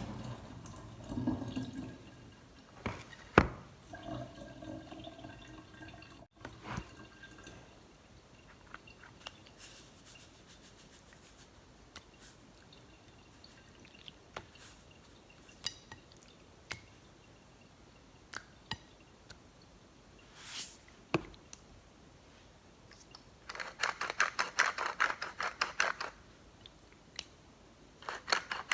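Quiet kitchen handling sounds: scattered clicks and knocks of utensils early on, then a quick run of many small ticks near the end.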